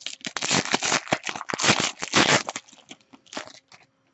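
Crinkling and rustling of trading-card packaging being handled, in rapid irregular bursts that thin out and stop near the end.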